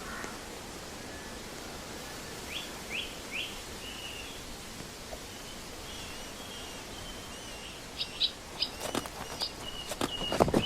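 Small birds chirping over a steady outdoor background hiss: three quick downward chirps, then a run of warbling calls. Near the end, sharp knocks of hooves clopping begin.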